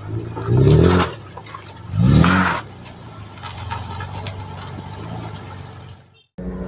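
Suzuki Grand Escudo XL-7's 2.7-litre V6 engine revved in two short blips, its pitch rising and dropping back each time, then running steadily. The sound cuts out briefly near the end.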